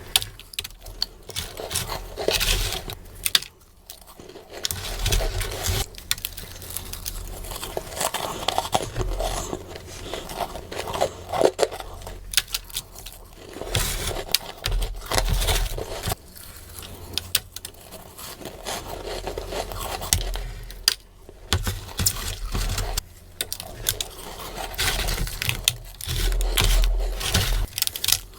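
Close-miked mouth chewing freezer frost: a dense, continuous run of crackly crunching bites, sped up, with two brief pauses.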